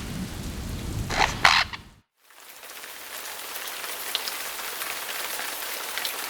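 Two short, loud squawks from Puerto Rican parrots in the aviary, then after a sudden cut a steady hiss of rain.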